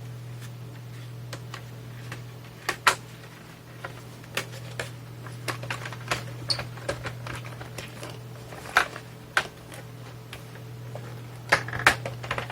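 Scattered clicks and knocks of the plastic case and circuit board of a Tascam Portastudio 414 MKII cassette recorder being handled as the board is worked loose, over a steady low hum.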